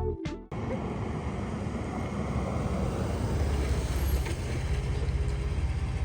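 A vehicle's steady engine and road rumble. The tail of background music cuts off about half a second in.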